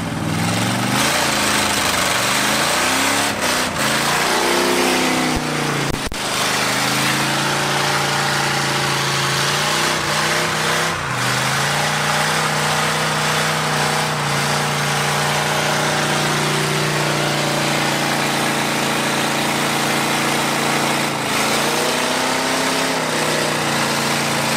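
1970 Plymouth Satellite's V8 revving hard through a burnout, a rear tire spinning and smoking. The engine note rises and falls several times in the first few seconds, then holds high and steady for about ten seconds, and dips and climbs again near the end, over the continuous rushing hiss of the spinning tire.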